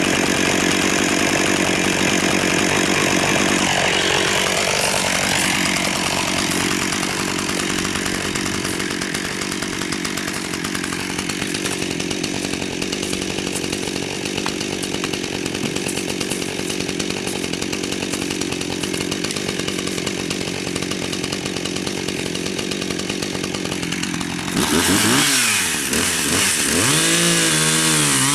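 A small engine running steadily, its pitch dipping and recovering about four seconds in. Near the end the pitch rises and falls repeatedly, as in revving.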